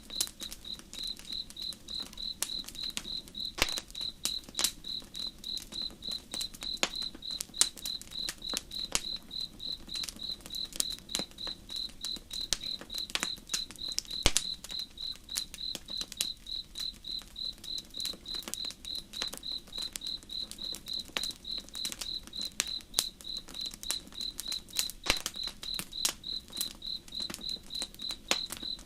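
Crickets chirping high-pitched in a steady, even rhythm, over the irregular crackles and pops of a wood campfire.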